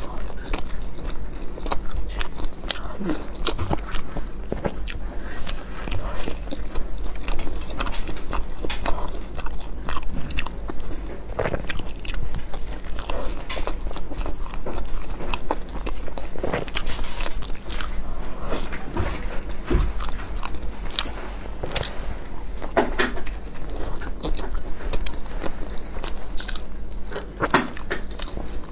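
Close-miked chewing and biting of a soft steamed meat bun (baozi), with irregular mouth clicks over a steady low hum.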